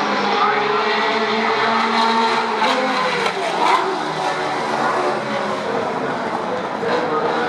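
Classic touring race cars running at speed: several engine notes at once, each rising and falling as the cars rev and shift, with a few short sharp cracks in the middle.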